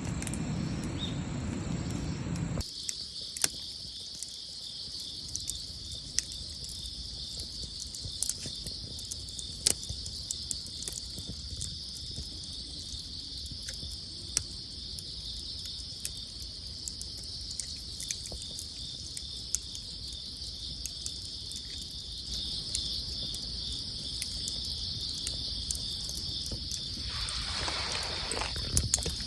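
A steady chorus of insects chirping, with sharp scattered pops and crackles from a wood campfire. A low rumble is heard at the start and cuts off suddenly after about two and a half seconds.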